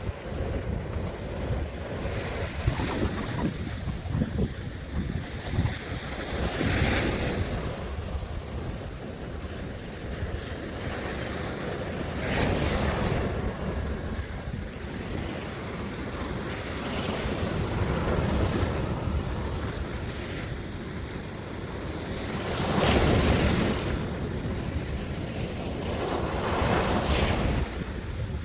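Sea waves breaking on the shore, the wash of surf swelling up a few times and dying back, with wind rumbling on the microphone.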